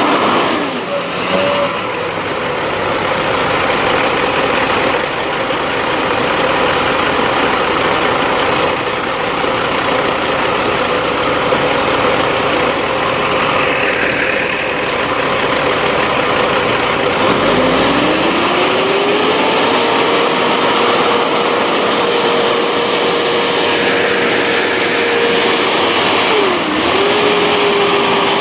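Diesel truck engines of a Duramax pickup and a dump truck running hard under load, pulling the dump truck out of mud up an incline. About two-thirds of the way in, an engine's pitch climbs and then holds high. Near the end it dips briefly and comes back up.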